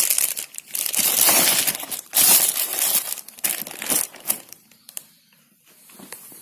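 Plastic packaging being crumpled and handled: loud, irregular crinkling with sharp crackles that dies away after about four and a half seconds, leaving a few light clicks.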